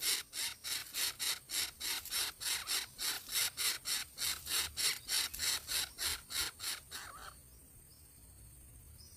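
Nestling birds' rasping, hissing begging calls, repeated about three times a second, stopping suddenly about seven seconds in; a few faint high chirps follow.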